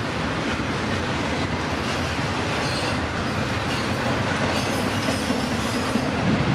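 A CPKC freight train's cars rolling steadily past at close range, with wheels clacking over the rail and a brief faint high wheel squeal about halfway through.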